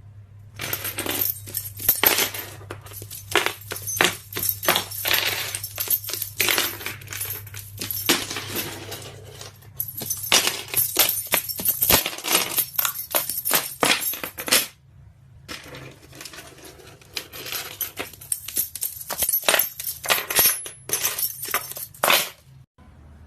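Rapid clinking and rattling made of many sharp strikes, in two long runs with a short break between them.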